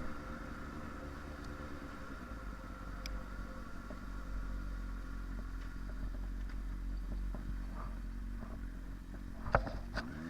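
Motorcycle engine running steadily underway, a low steady hum with two sharp clicks near the end.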